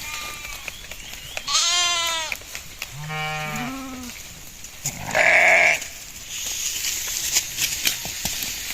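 Sheep bleating: three separate quavering calls, a high one about a second and a half in, a lower one about three seconds in, and the loudest about five seconds in.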